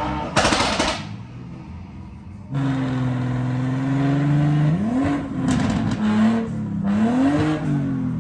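Car engine revving: a loud burst in the first second, then about two and a half seconds in a steady held engine note, followed by two quick rises in pitch.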